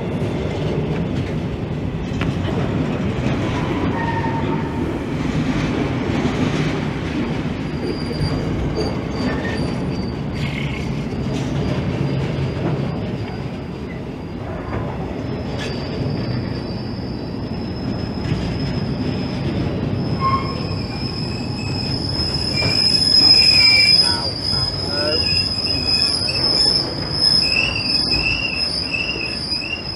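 A train moving slowly, with a low rumble and its steel wheels squealing against the rails in high, wavering tones that grow louder from about halfway through.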